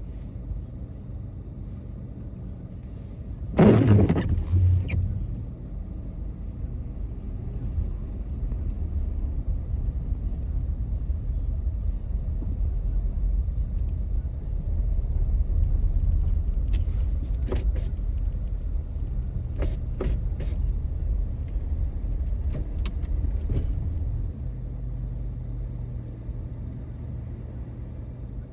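Car driving through snowy city streets: a steady low engine and road rumble that grows louder for a stretch in the middle, with one loud thump about three and a half seconds in and a few sharp clicks later on.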